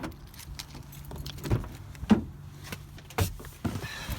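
A run of sharp clicks and light knocks from a bunch of keys and key fobs being handled, over a faint steady low hum.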